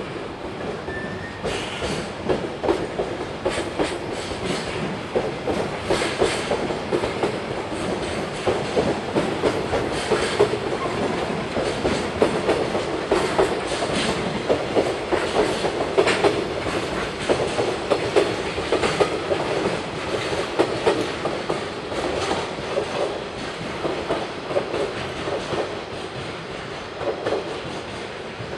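Container freight train passing: steel wheels clacking over rail joints in quick, irregular clusters over a steady rolling rumble, easing off slightly near the end as the last wagons go by.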